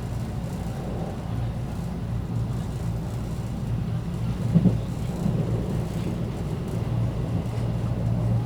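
Local train running, heard from inside the carriage: a steady low rumble and hum with one brief louder knock about halfway through.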